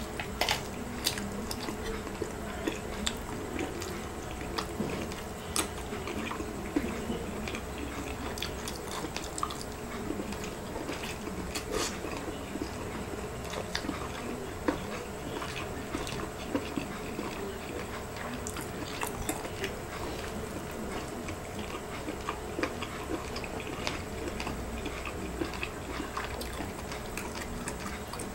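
Wet chewing and mouth sounds of a person eating sauce-coated balut (boiled fertilized duck egg) and rice, with frequent short irregular sticky clicks.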